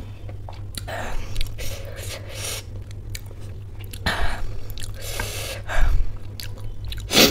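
Close-miked chewing of soft, wet samosa with ghugni gravy: irregular smacking and squelching mouth sounds, with a sharper, louder one near the end, over a steady low hum.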